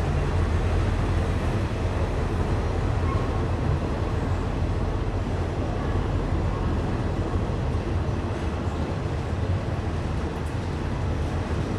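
A train's steady low rumble, with no distinct knocks or horn.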